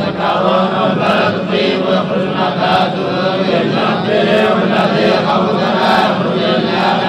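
A man's voice chanting Quranic recitation in a slow, melodic style, with pitch that glides across held notes.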